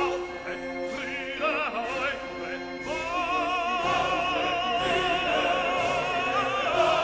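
Classical music with an operatic voice singing, settling into long held notes with wide vibrato about three seconds in.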